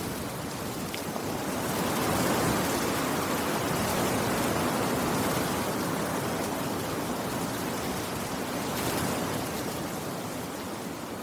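Steady rain falling, an even, dense hiss with no distinct drops or thunder.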